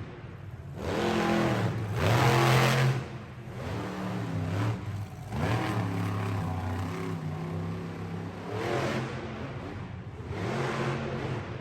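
Monster truck engine revving in several surges, its pitch climbing and dropping each time; the loudest burst comes about one to three seconds in.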